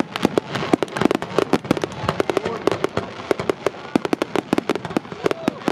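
Fireworks going off in a rapid, irregular string of sharp cracks and pops.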